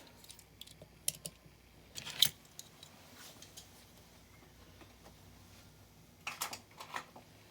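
Small die-cast toy cars being handled, with scattered light clicks and clinks and two louder clattering bursts, about two seconds in and again near the end.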